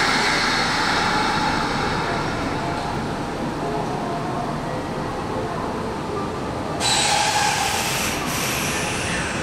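Electric commuter train running along the platform: a steady rumble of wheels on rail with thin high squealing tones over it. It grows louder and brighter about seven seconds in.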